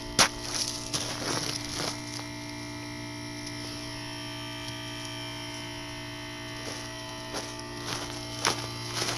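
Steady electrical hum made of several constant tones, with a few sharp clicks just after the start and again near the end.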